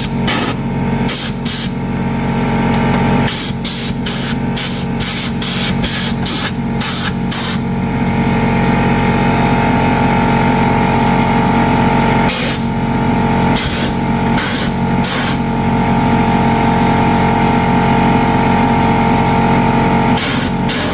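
Short, repeated bursts of compressed-air hiss from a pneumatic tool, coming in quick runs, over a steady mechanical hum.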